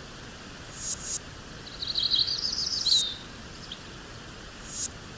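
A songbird sings one quick phrase about two seconds in: a rapid run of high chirps rising in pitch and ending in a downward slide. Under it runs a steady soft hiss of nature ambience, with a few brief high swishes.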